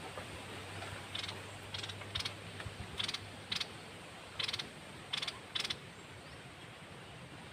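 Red-whiskered bulbul kept as a cage bird, sounding about eight short, sharp notes, one after another, over a faint steady hiss.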